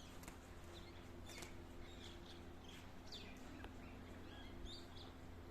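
Faint, short bird chirps and calls, scattered irregularly, over a low steady hum.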